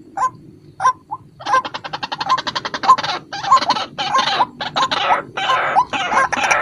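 White-breasted waterhen (ruak-ruak) calling: a few single short notes, then from about a second and a half in a fast, harsh run of repeated croaking calls, the lure call used to draw waterhens in.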